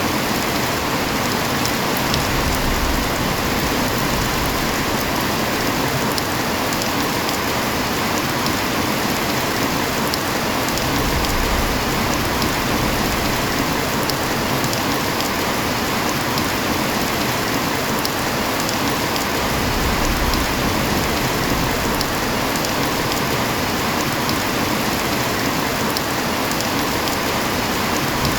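Steady heavy rain falling, with scattered sharp drop ticks. A low rumble rises and fades three times.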